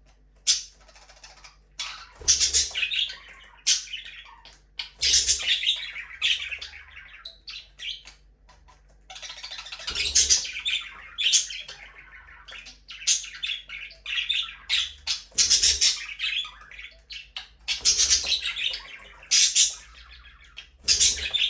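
Several budgerigars chirping, warbling and squawking in dense, overlapping chatter.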